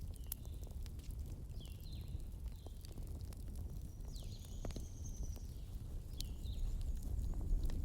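Wood fire burning with a steady low rumble and scattered sharp crackles and pops. Short high chirping notes and one longer high whistle about halfway through sound over it.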